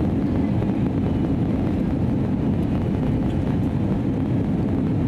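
Steady low roar of engine and airflow noise inside the cabin of an Airbus A320neo in flight, its CFM LEAP-1A engines running at an unchanging setting.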